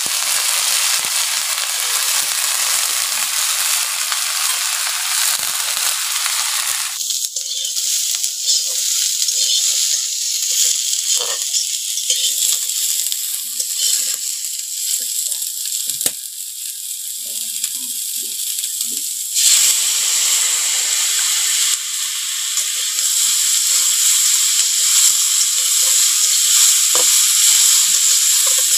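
Jackfruit pieces sizzling in hot oil in an aluminium kadai, stirred with a spatula that scrapes and clicks against the pan. The sizzle is loud and steady and changes abruptly twice.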